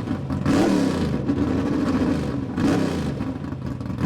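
Car engine revving repeatedly, its pitch rising and falling in swells about every two seconds.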